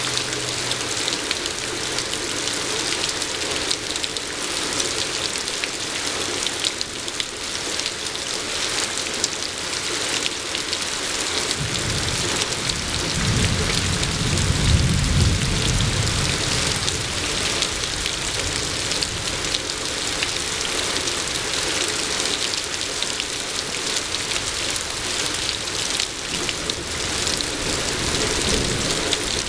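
Steady rain falling and pattering on surfaces. About twelve seconds in, a low rumble of thunder swells, peaks for a few seconds and dies away.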